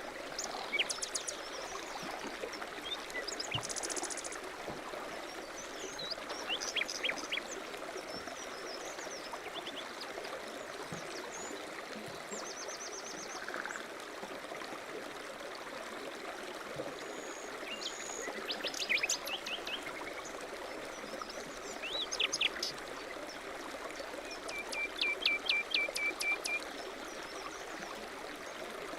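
A mountain stream running steadily, with several small birds calling over it: short chirps and rapid trills that come and go, with the busiest bursts of quick repeated notes about two-thirds of the way in and near the end.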